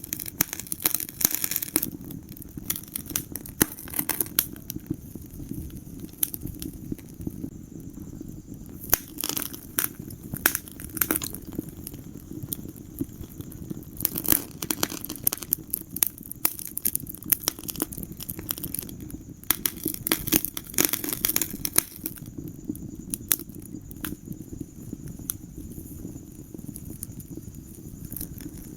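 Wood fire crackling in a fireplace: irregular sharp pops and snaps over a steady low rumble of the flames, with several denser spells of crackling.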